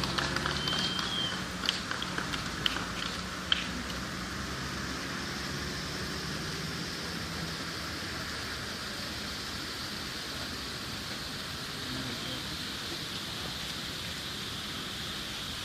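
Fireworks: a few sharp pops in the first few seconds, then a steady crackling hiss like rain, typical of crackling-star shells.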